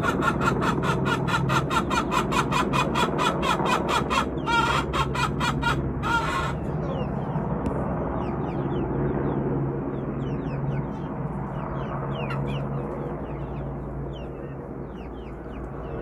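Helicopter rotor chopping in rapid, even beats, with a louder rushing burst about four seconds in. The beats stop about six seconds in, leaving a steady low hum with chickens clucking over it.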